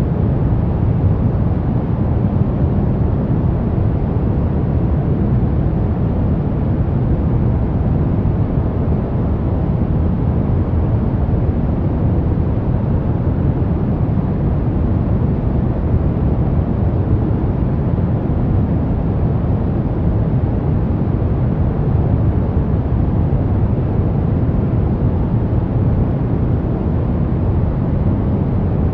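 Steady pink noise: an even, unbroken hiss, heaviest in the low range.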